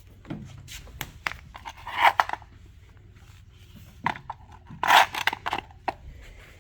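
Scattered clicks, scrapes and knocks of gear being handled, with two louder scraping rustles about two and five seconds in, over a steady low hum.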